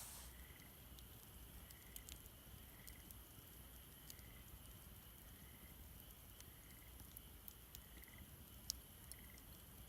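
Near silence: faint scattered crackles and clicks from a campfire, with a faint high chirp repeating about once a second.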